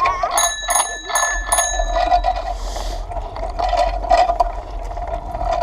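A bicycle bell rung four times in quick succession, each ring trailing off.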